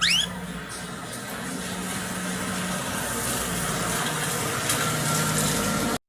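Yellow-vented bulbul giving quick rising whistled notes right at the start, then a steady rushing background noise with a low hum that slowly grows louder and cuts off suddenly near the end.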